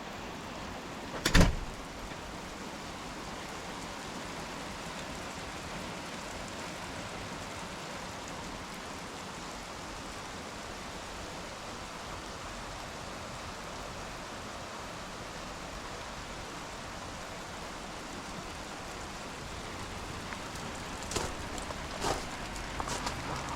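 Steady rain falling, with one loud, sharp thump about a second in and a few lighter knocks near the end.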